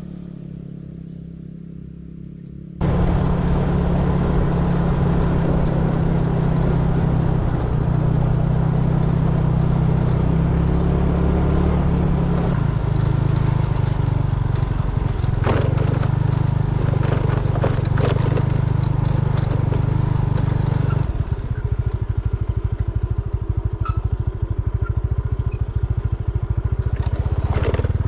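Motorcycle engine running under way, quieter for the first few seconds, then suddenly much louder about three seconds in and steady, its pitch stepping a few times as the speed changes.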